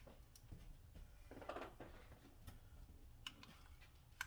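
Near silence with faint handling noises: a soft rustle of packaging about a second and a half in and a few small clicks.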